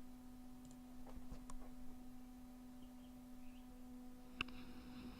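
Faint steady electrical hum with a few soft clicks: room tone from the recording setup.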